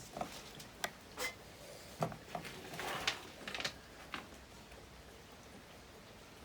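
Scattered light clicks and rattles of a Stihl 028 AV chainsaw's chain and bar being handled, which stop about four seconds in.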